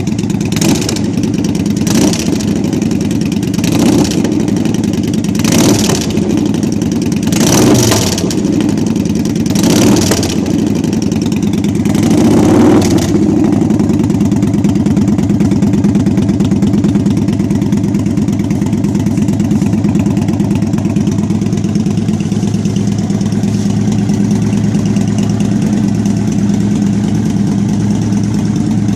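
Motorcycle engine running through a Vance Hines aftermarket exhaust: it idles, with short throttle blips about every two seconds in the first half, then settles to a steady idle.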